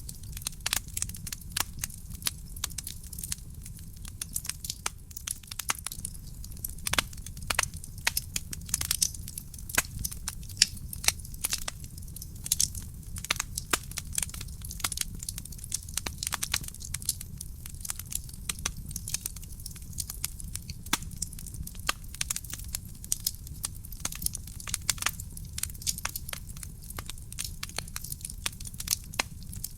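Wood fire burning in a fireplace: dense, irregular crackling and popping of the burning logs over a steady low rumble of the flames.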